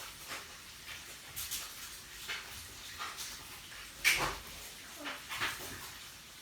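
Eating sounds: a person chewing with short, irregular smacking clicks, the loudest about four seconds in.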